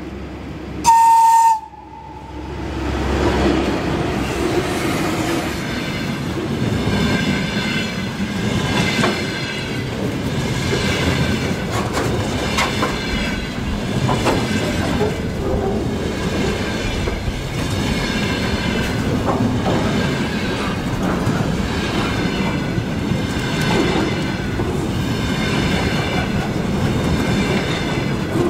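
A train sounds one short, high horn blast, then passes close by: a steady rumble of wheels on rails that builds over the next couple of seconds and keeps on, with a clickety-clack of wheels over rail joints.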